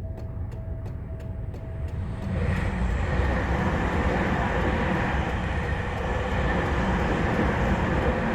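Japanese level-crossing warning bell ringing about twice a second. About two seconds in, a Toyoko Line electric train passes over the crossing, and the steady rush and rumble of its wheels on the rails drowns out the bell.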